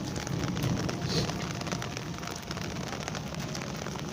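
Heavy monsoon rain falling and pattering on hard surfaces and water, a dense steady hiss.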